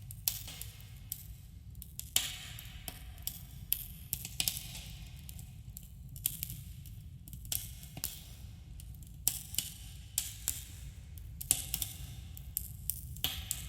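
Campfire crackling and popping: irregular sharp snaps of burning wood, some clustered, over a steady low rumble, with a slight echo.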